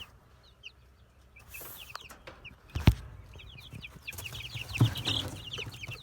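A flock of young chickens peeping with many short, high calls, growing busier after about four seconds. A single sharp knock sounds about halfway through.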